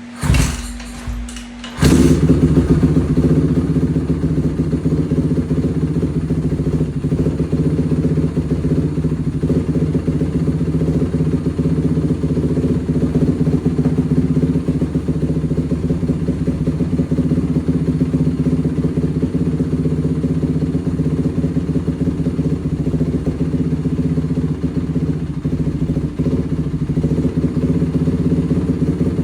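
Honda CRF single-cylinder four-stroke engine in a Kawasaki KFX ATV frame, turning over for under two seconds, catching, then idling steadily.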